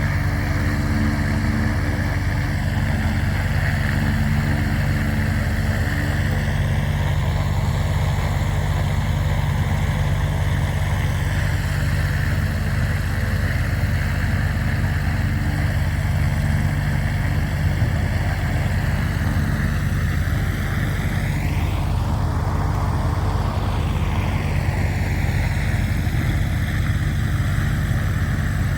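Light aircraft's piston engine running steadily, its tone sweeping down and back up a little past two-thirds of the way through as the aircraft passes closest.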